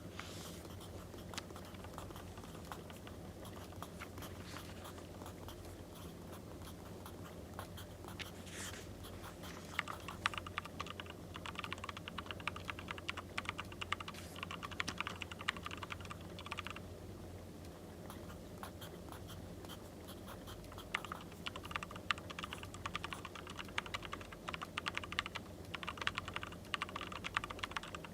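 Firewood crackling with scattered sharp pops, overlaid by two long stretches of dense scratching and tapping, typical of a pencil writing on paper: the first about ten seconds in, ending abruptly near seventeen seconds, the second from about twenty-one seconds to near the end.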